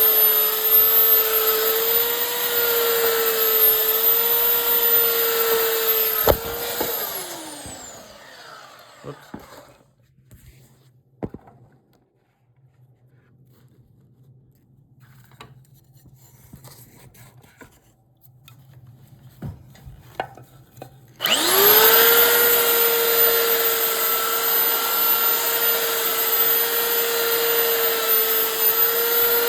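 Electric power tool working wood: the motor runs at a steady pitch with a high whine and a rasp of wood being cut or abraded. It is switched off about six seconds in and winds down. After a quiet pause with a few light knocks, it spins back up sharply near the end and runs steadily again.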